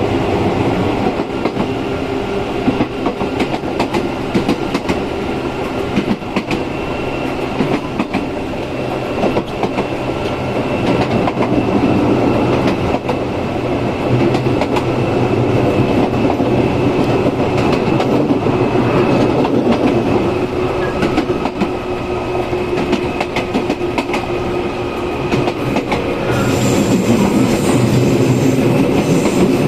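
Izukyu 8000 series electric train running, heard on board: the Hitachi-built low-tone traction motors hum and whine steadily under the rumble of the car, with wheels clicking over rail joints. A higher whistle-like tone joins near the end.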